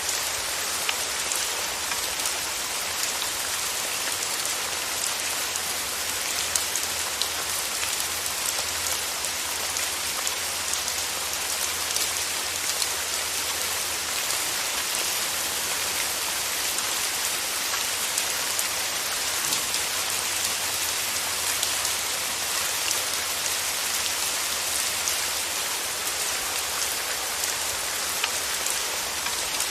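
Steady rain falling: a dense, even hiss with many individual drops ticking through it.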